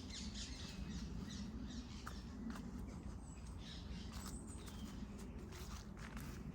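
Small birds chirping and twittering in many short, quick calls, over a steady low background rumble.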